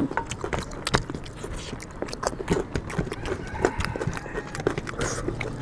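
Eating noises: an irregular run of short clicks and smacks from chewing and handling food during a chicken curry and rice eating challenge, with a brief faint murmur in the middle.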